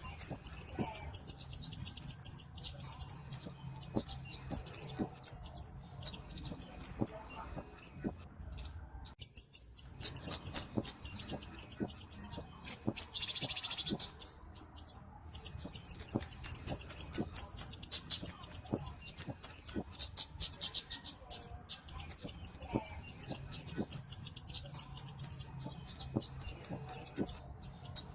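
Flowerpecker (Indonesian 'kemade' or 'cabe-cabean') calling: rapid trains of thin, high chips, several a second, in runs of a few seconds broken by short pauses, with a buzzier note about halfway through.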